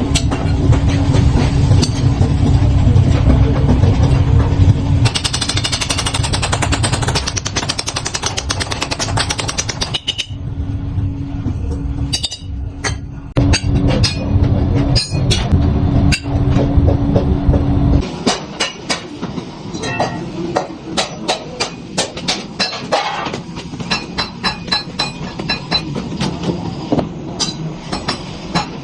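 Workshop machinery running with a steady hum and clatter, cutting out about 18 seconds in, followed by repeated sharp metal knocks, about two a second, as of hammering metal.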